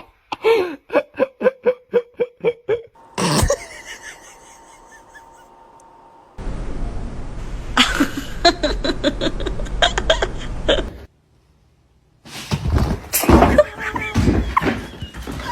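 People laughing in rhythmic ha-ha bursts, about three or four a second, then laughing again in later clips over background noise, with abrupt cuts between them.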